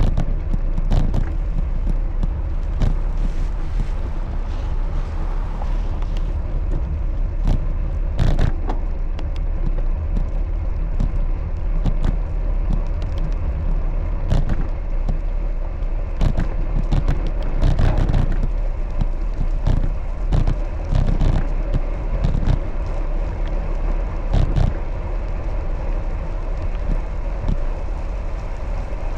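Steady road and wind rumble of a bicycle ride, with frequent short clicks and rattles from bumps in the road.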